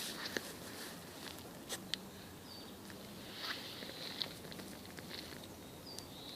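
Quiet spring-stream ambience: a faint steady rush of flowing water with scattered light clicks and taps, and a few brief high chirps, one about two and a half seconds in and two near the end.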